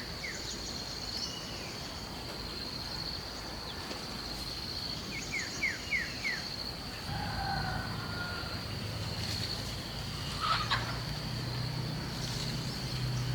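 Rural outdoor ambience: an insect's steady high-pitched trill throughout, with short bursts of quick falling bird chirps near the start and again about halfway. A low hum comes in about halfway.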